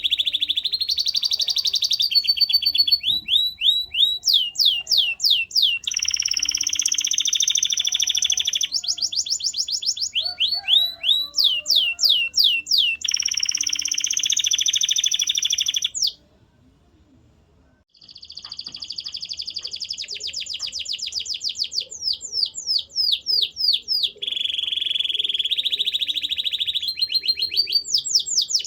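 Domestic canary singing a long, loud song of rapid buzzing trills alternating with runs of quick upward-sweeping notes, with a pause of about two seconds a little past the middle.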